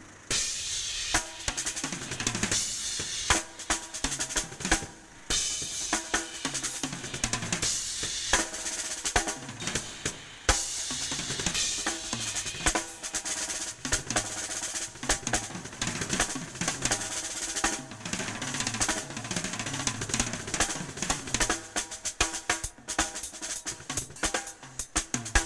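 Drum kit played solo in a fast improvisation: rapid bass drum, snare and tom strokes under a steady wash of cymbals, with a short break about five seconds in.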